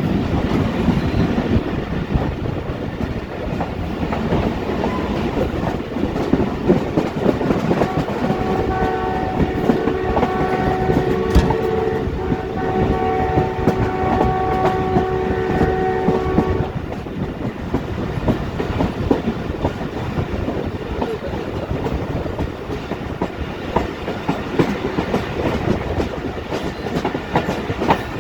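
Passenger train running at speed, wheels clattering over the rail joints, with the diesel locomotive's multi-tone horn blowing for about eight seconds in the middle before cutting off.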